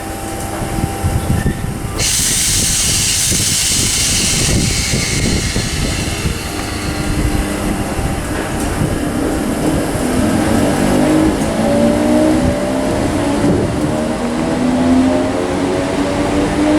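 Electric train running at a railway station: a steady rushing noise, louder and hissier for a couple of seconds early on, then a set of whining tones that climb in pitch from about halfway as the train's traction motors speed up.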